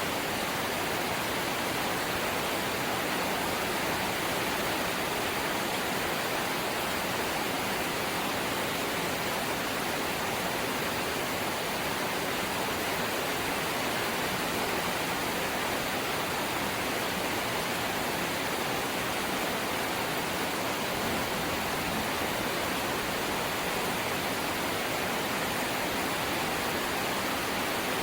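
Rain falling steadily on a corrugated zinc roof: an even, unbroken rush with no distinct drops or pauses.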